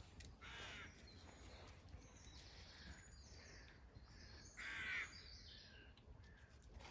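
Two faint short bird calls, one about half a second in and a louder one just before five seconds, over a near-quiet outdoor background.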